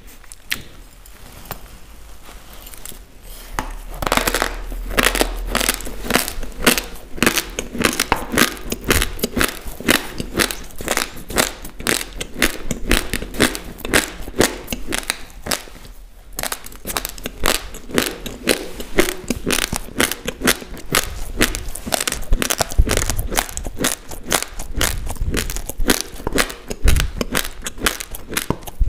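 Close-miked chewing of a mouthful of raw, uncooked basmati rice: rapid, dense crunching of the hard grains between the teeth. It starts about four seconds in and stops briefly near the middle.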